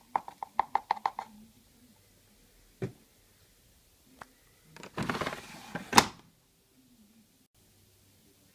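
Handling of an AEG Öko-Lavamat washing machine: a quick run of about eight clicks, a single knock, then a brief sliding rush ending in a sharp latch-like click, like a door or detergent drawer being shut.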